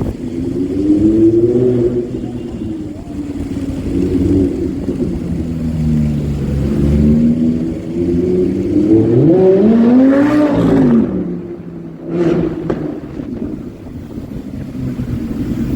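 Supercar engine running loudly, revving up and dropping in pitch several times, with one strong rise and fall about ten seconds in, like a car accelerating past. A single sharp pop follows about a second later, typical of an exhaust crackle.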